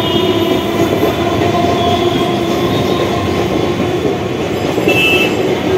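Electric multiple unit (EMU) suburban local train running along the platform: a steady rumble and clatter of wheels on rail under a hum, with a short high squeal about five seconds in.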